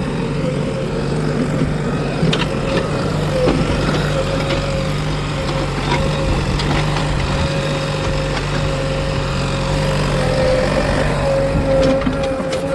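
JCB 3DX backhoe loader's diesel engine running steadily, with a steady whine above the engine note.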